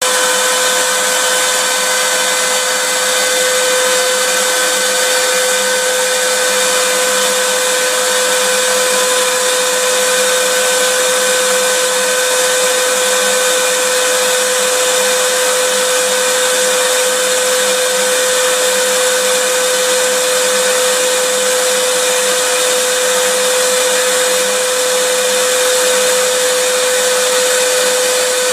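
Vacuum cleaner running steadily: a continuous rush of air with a steady motor whine held at one pitch.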